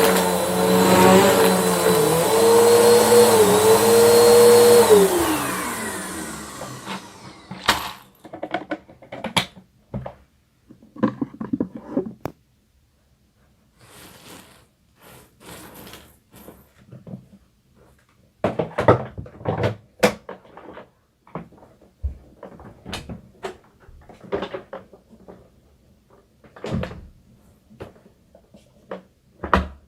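Bissell vacuum cleaner running with a steady whine, then switched off about five seconds in, its motor winding down over a couple of seconds. After that, scattered clicks and knocks.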